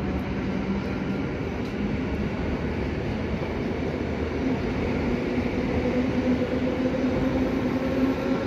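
Electric commuter train running past on the tracks: a steady rumble of wheels on rail with a motor hum that rises slowly in pitch.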